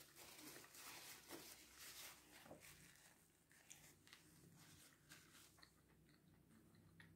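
Faint, close-miked chewing and wet mouth clicks of a person eating, busiest in the first few seconds and then sparser.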